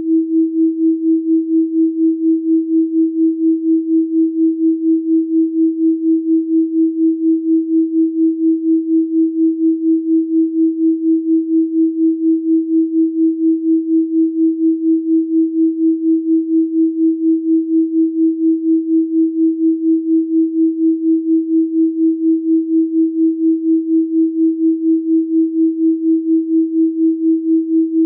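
A steady electronically generated pure sine tone at 324 Hz, pulsing evenly in loudness about three times a second.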